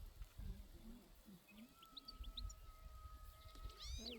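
Faint animal calls: one long, steady, held call lasting about two seconds, with short high bird chirps around it and a rising high call near the end.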